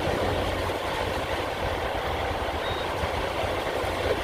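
Semi-truck diesel engine idling with a steady low rumble, with wind noise on the microphone.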